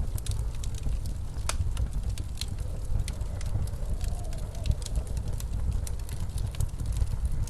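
Fireplace crackling with scattered sharp pops and ticks, over the steady low rumble of blizzard wind.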